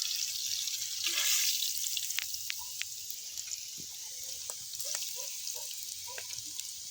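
Fish frying in hot oil in a large cast-iron pot: a steady sizzling hiss with scattered small pops and crackles, swelling about a second in.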